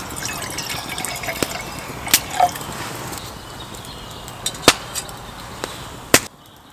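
Wood campfire burning down to embers: a steady hiss with sharp crackles and pops scattered through it, stopping abruptly near the end.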